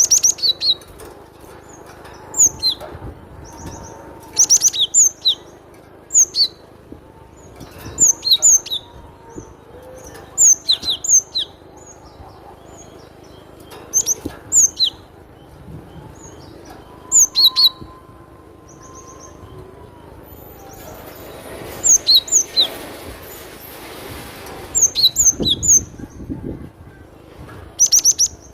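Cinereous tit (glatik batu) singing: short phrases of two to five quick, high, clear notes, repeated every couple of seconds.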